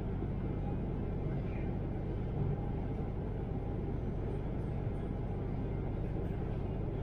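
Steady low rumble of an intercity train running at speed, heard from inside the passenger cabin: wheels on rails and running-gear noise.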